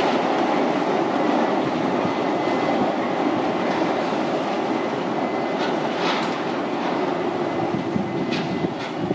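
Train running along the tracks: a steady rumble of wheels on rail with a faint steady whine, and a few light clicks about six and eight seconds in.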